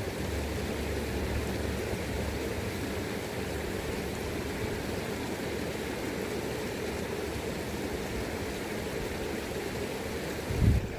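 River current rushing steadily, with wind buffeting the microphone as a low rumble in the first few seconds and again briefly near the end.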